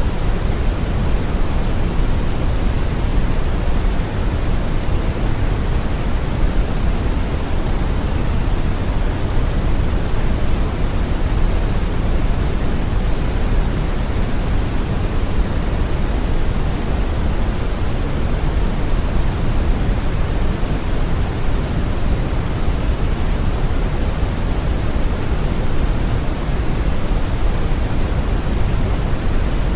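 Steady brown noise: a deep, even hiss with most of its weight in the low end, unchanging throughout.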